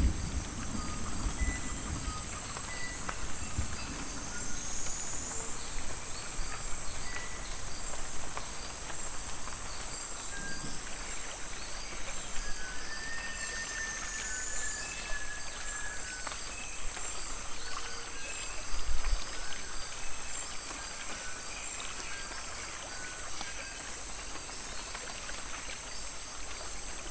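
Tropical rainforest ambience: a steady, high-pitched insect drone with many short whistled calls scattered through it, some gently rising or falling, and occasional light ticks of rain dripping through the foliage.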